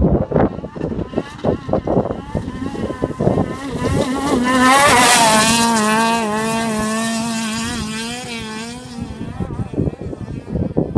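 A desert race vehicle's engine passing at speed. It comes up over a few seconds, is loudest about five seconds in with a drop in pitch as it goes by, then fades away with the revs rising and falling.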